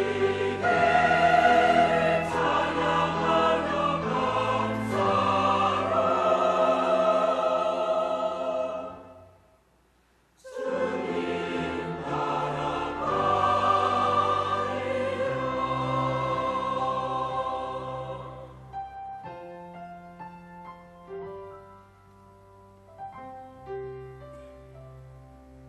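Church choir singing a sacred anthem with accompaniment, breaking off for about a second near the middle before singing on. After about eighteen seconds the voices stop and a soft instrumental close of single held notes follows.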